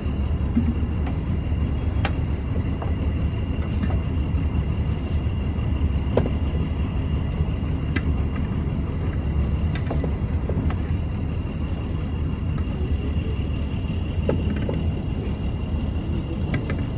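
Fishing boat's diesel engine running steadily, a constant low drone with a faint steady whine above it and a few light knocks.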